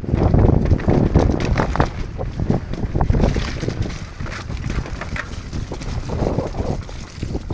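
Wind buffeting the microphone over the clatter of a mountain bike riding fast down a wet, muddy trail, with a steady run of knocks and rattles as it goes over rough ground.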